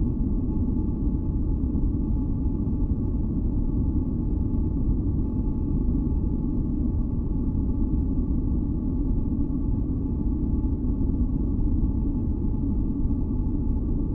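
Continuous sleep-noise track: a deep, steady noise weighted to the low end, with faint steady tones humming above it, unchanging throughout.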